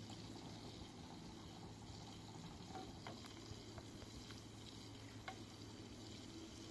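Faint steady liquid sound over a low hum, with a few light clicks.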